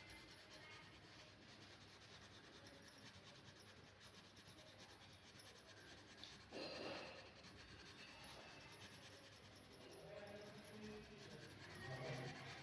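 Faint scratching of a pen on paper while drawing, close to near silence, with one brief louder sound a little past halfway.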